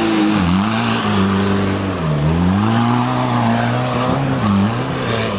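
An off-road 4x4's engine revving under load as it climbs the course. Its pitch dips and climbs back three times, about half a second, two seconds and four and a half seconds in, as the throttle is eased and reapplied.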